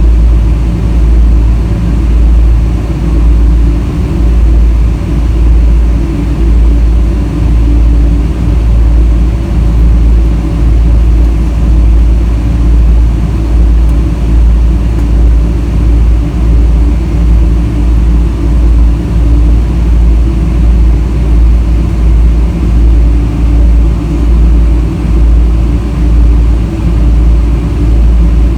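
Boeing 777-300 airliner heard from inside the cabin: a steady, loud jet-engine drone over a deep rumble that swells and dips about once a second.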